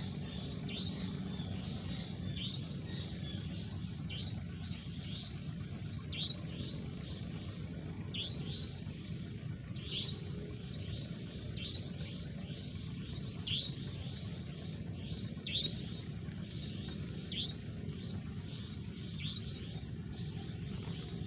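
Birds chirping at sunrise in a mangrove forest: short, falling chirps repeated, the loudest about every two seconds with fainter ones in between. Underneath are a steady low rumble and a constant high-pitched hum.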